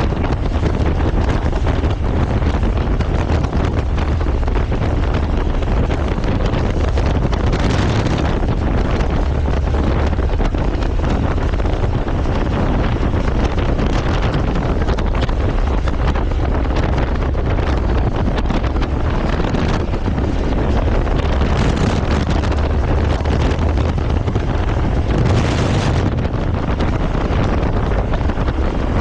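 Steady wind rush buffeting the microphone of a motorcycle riding at speed, with the motorcycle's running noise beneath it. A few brief louder gusts of hiss come through.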